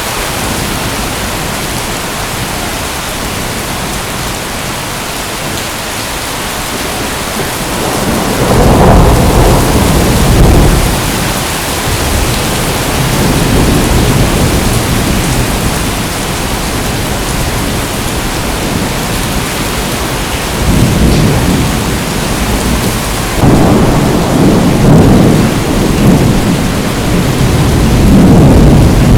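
Steady heavy rain hiss. From about eight seconds in, rolling thunder rumbles over it in several long, low swells.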